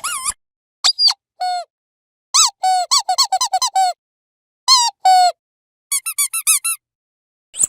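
Dog squeaky toy squeezed over and over: short squeaks, some alone and some in quick runs of five or six, with brief silences between.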